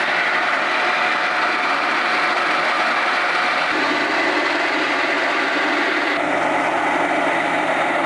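Circular sawmill running: a loud, steady mechanical noise of its engine and spinning blade, changing in tone about a third of the way through and again a little past the middle.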